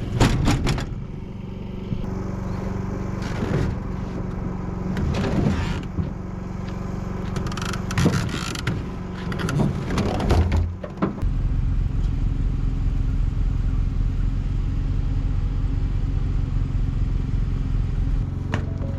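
A vehicle engine running steadily under repeated metal clanks and creaks of unloading. About halfway through the knocking stops and the engine settles into a louder, steady low drone.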